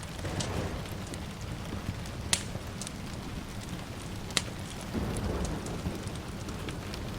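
Steady rain with a low rumble of distant thunder that swells twice, mixed with a crackling wood fire in a fireplace giving two sharp pops, about two and four seconds in.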